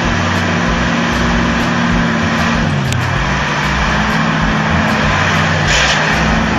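Heavy truck engine running under load over loud rumbling noise; the engine pitch drops briefly about three seconds in and then climbs back. A short hiss sounds near the end.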